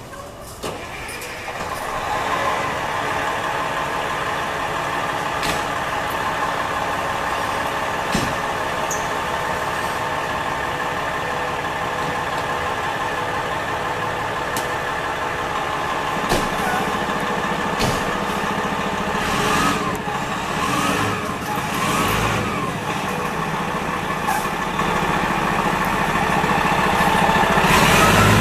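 Fire engine's diesel engine running steadily after coming in about a second in, getting louder near the end.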